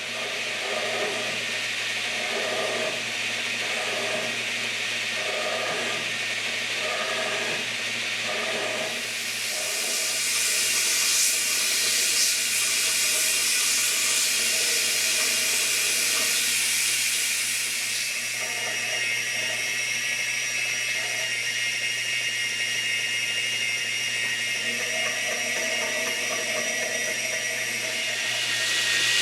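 Power sanding tool running steadily with a motor hum, most likely shaping a wooden knife handle. It begins with rhythmic passes about every 0.7 s, then has a stretch of much louder high hiss as the wood is pressed harder against the abrasive.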